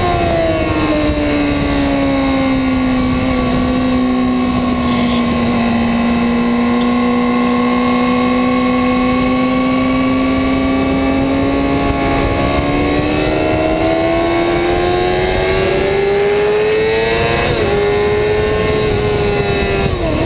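2008 Yamaha R6's inline-four engine, heard from a camera mounted on the bike. Its pitch falls over the first few seconds, holds steady for several seconds, then climbs under acceleration, with two quick dips near the end as it shifts gears.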